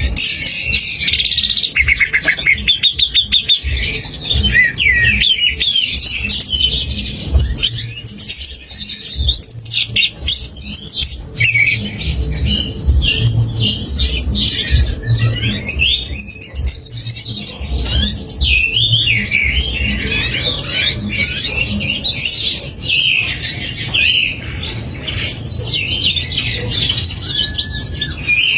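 A dense, unbroken medley of recorded songbird song: fast chattering phrases, trills and rising and falling whistled notes, with a low pulsing beat underneath.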